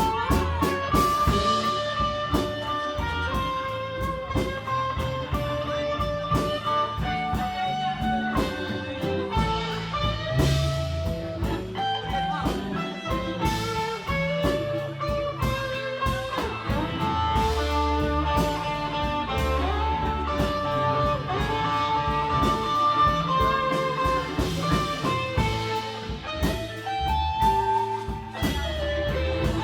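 Live rock band playing an instrumental passage: an electric guitar plays a melodic lead over bass and drums.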